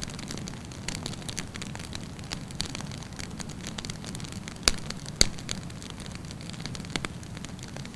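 Wood campfire burning, a steady low rush of flame with constant fine crackling, and two loud sharp pops a little past the middle, about half a second apart.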